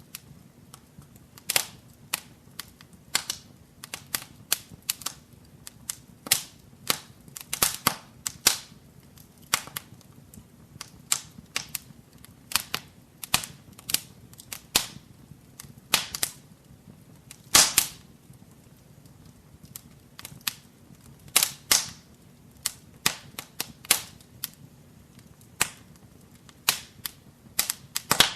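Wood fire crackling in a fireplace: irregular sharp pops and snaps, several a second at times, some much louder than the rest, over a faint low rumble of the flames.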